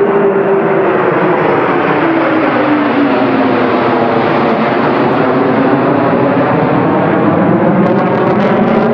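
F-15 fighter jet passing by, its loud engine noise with a whine that drops in pitch over the first few seconds as it goes past.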